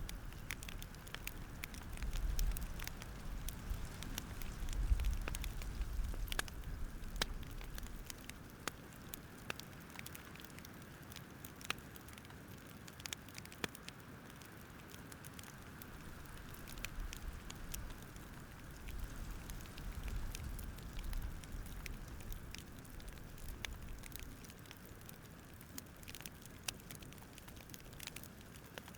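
Campfire crackling: irregular sharp pops and snaps over a soft steady hiss, with a low rumble that swells in the first few seconds, fades, and rises again midway.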